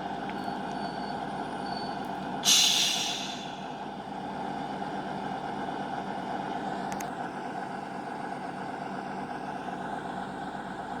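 Diesel passenger train standing at a station platform with its engines running steadily, and a short loud hiss of air from the brakes about two and a half seconds in.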